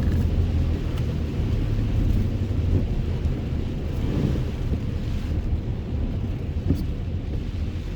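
Pickup truck driving on a rain-soaked, flooded road, heard from inside the cab: a steady low engine and tyre rumble with tyres hissing and splashing through standing water. The spray noise swells briefly about halfway through.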